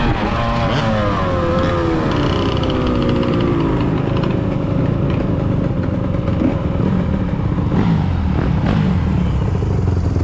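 Yamaha YZ125 two-stroke dirt bike engine running, its pitch falling over the first few seconds as the throttle comes off, then carrying on steadily.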